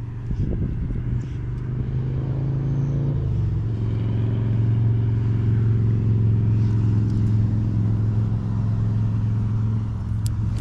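An engine running steadily with a low hum, its pitch dropping slightly about three seconds in.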